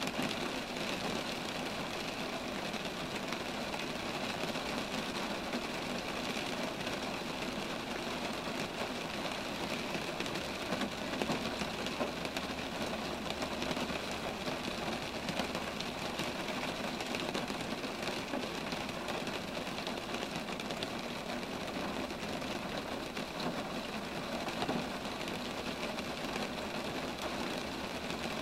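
Steady rain falling on roadside trees, an even unbroken patter with a low rumble underneath that swells slightly in the middle.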